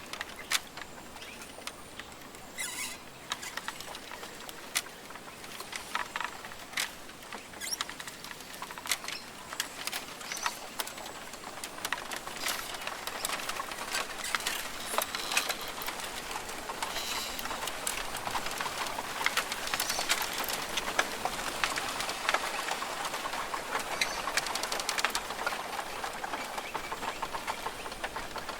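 Rainforest ambience: a steady hiss with many quick ticks and patters, growing busier about halfway through, and scattered bird calls.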